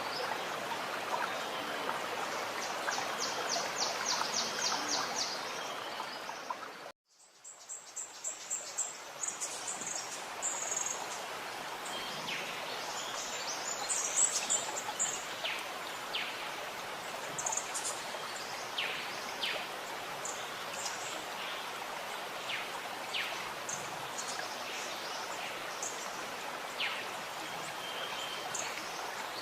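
Running water gurgling steadily under small birds chirping. A fast, high trill of about a dozen notes sounds a few seconds in. A little later all sound cuts out abruptly and fades back in over a second or so, the join of a looped recording.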